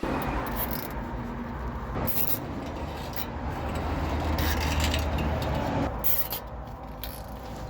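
DAF CF truck's diesel engine running with a steady low rumble that gets louder about halfway through and eases off near the end, with a few short knocks over it.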